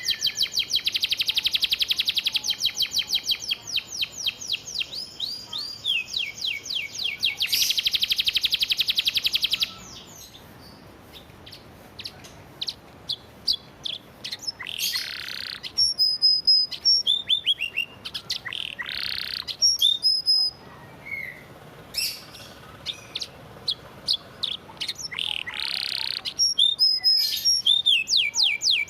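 Domestic canary singing: fast, evenly repeated rolls of high notes, then a quieter stretch of scattered chirps and a few short buzzy notes, and the fast rolls start again near the end.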